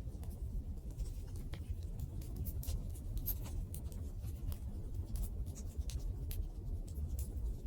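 Wood fire burning: irregular crackles and sharp pops over a steady low rumble of the flames.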